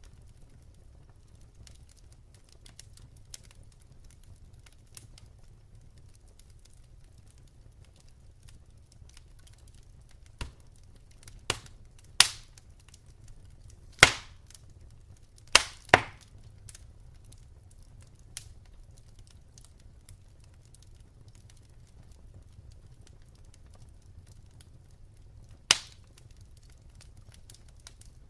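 Wood fire crackling, with light scattered ticks and a handful of loud sharp pops about ten to sixteen seconds in and one more near the end, over a faint low rumble.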